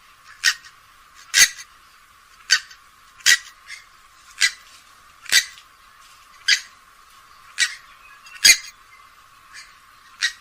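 Grey-headed swamphen giving a series of short, harsh calls, about one a second.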